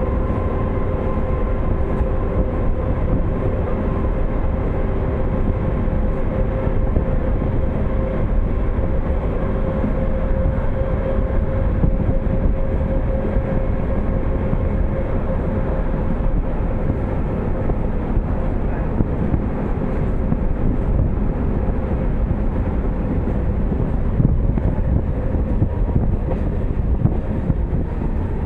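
A train running along the rails: a steady rumble with a held whine that fades out about halfway through.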